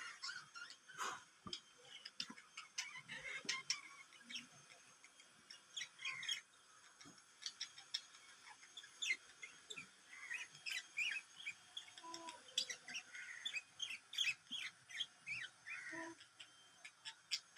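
Small birds chirping: many short, quick chirps and twitters, often overlapping, with no pause.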